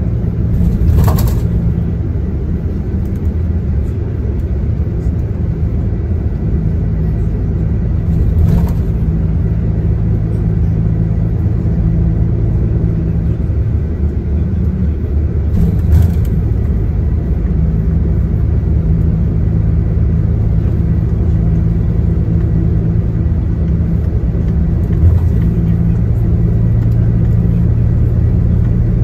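Coach bus's diesel engine running steadily under a low rumble of road noise, heard from inside the passenger cabin, with four brief knocks spread through it.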